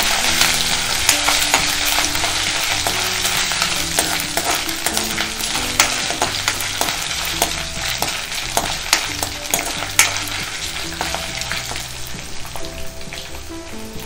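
Crushed ginger-garlic and green chilli frying in hot coconut oil in a kadai, a steady sizzle with the clicks and scrapes of a spoon stirring against the pan. The sizzle eases and the stirring stops near the end.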